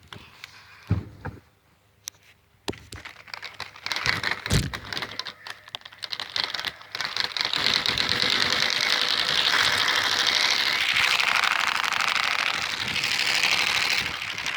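Trading cards taped to a bicycle frame slapping against the turning spokes as the bike is ridden: a fast clicking clatter that builds from about four seconds in and runs steady from about seven seconds. It sounds like an engine, which is what the cards are meant to imitate. A few knocks come first.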